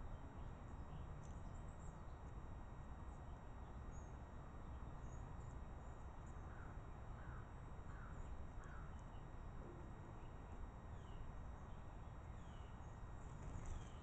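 Faint calls of small birds: scattered high chips and a run of four short downslurred notes in the middle, with a few more falling notes later, over a steady low rumble.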